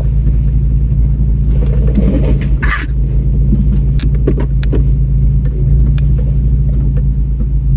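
Off-road vehicle's engine running at low speed, a steady low drone, with a handful of sharp knocks and rattles between about two and six seconds in as it works over rough trail.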